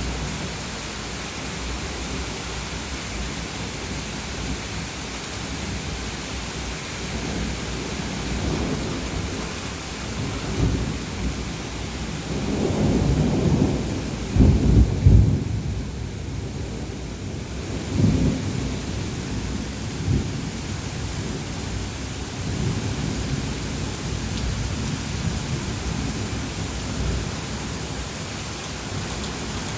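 Steady hiss of heavy rain with rolling thunder. The thunder rumbles low a few times, swells to its loudest about halfway through and then dies back to the rain.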